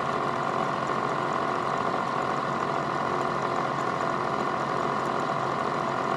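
Milling machine spindle running steadily as a 1/8-inch end mill is fed slowly down into a brass insert, a constant motor hum and whine with no breaks.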